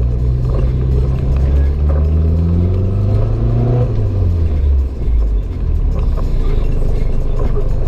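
Renault 5 GT Turbo's turbocharged four-cylinder engine accelerating, its pitch rising for about four seconds, then falling away about four to five seconds in, after which a steady engine and road rumble carries on.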